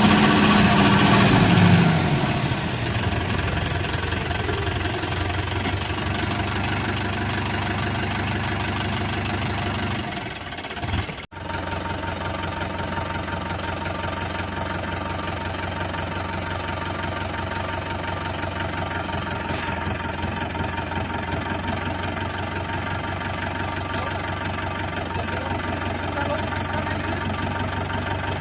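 Diesel tractor engine running; in the first two seconds its pitch falls as it slows, then it runs on at a steady idle. The sound drops out briefly about eleven seconds in and resumes.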